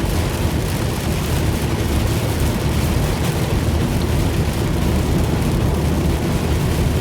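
Steady road noise inside a moving car on a flooded highway: tyres hissing through standing water and rain, over a low rumble of the car.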